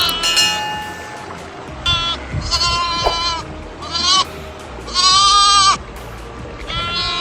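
Panicked fox with its head trapped, giving repeated high, wavering screams, each about half a second to a second long, in distress. Music plays underneath.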